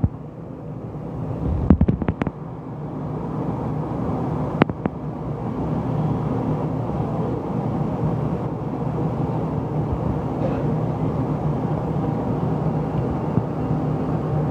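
Steady low machine hum with a few sharp clicks in the first few seconds.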